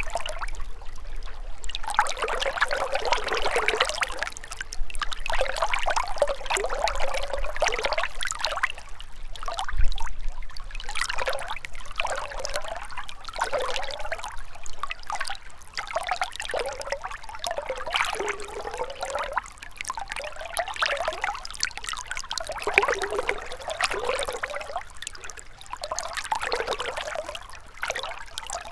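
A small river or stream trickling and gurgling over stones, the flow swelling and ebbing every second or two. A brief low thump about ten seconds in.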